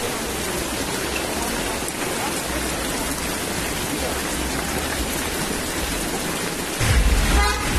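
Steady rain falling, an even hiss. Near the end a louder low rumble sets in, with a brief wavering tone above it.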